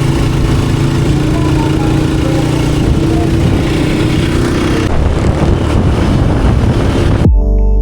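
A motor vehicle's engine running steadily and loud, close to the microphone. It cuts off abruptly near the end, replaced by electronic music with a steady beat.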